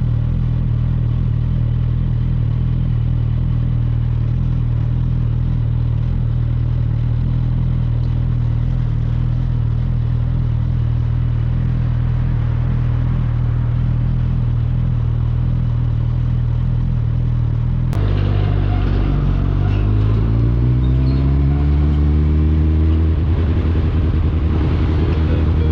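Suzuki GSF 650 Bandit's inline-four engine running through an Akrapovic exhaust, holding a steady note. After a sudden cut about three-quarters of the way through, it rises in pitch as the bike accelerates.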